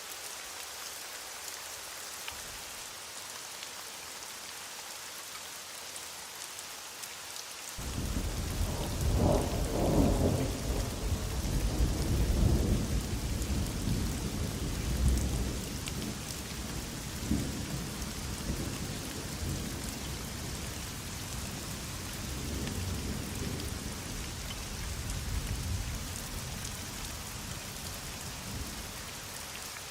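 Heavy rain falling steadily. About eight seconds in, a roll of thunder starts suddenly, rumbles loudest for the next several seconds, then slowly dies away under the rain.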